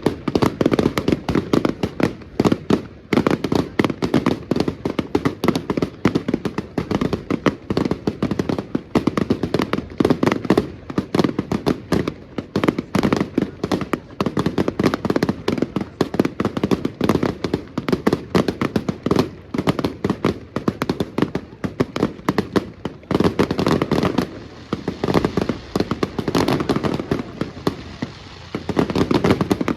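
Fireworks and firecrackers going off in a dense, continuous barrage: sharp bangs and cracks, many a second, overlapping without pause.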